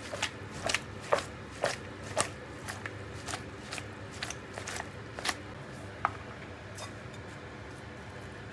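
A series of light, sharp clicks and taps, about two a second, growing fainter and sparser after about five seconds.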